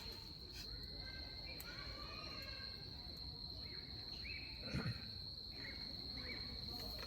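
Steady high-pitched trill of an insect, such as a cricket, with a small double crackle from the wood fire about five seconds in.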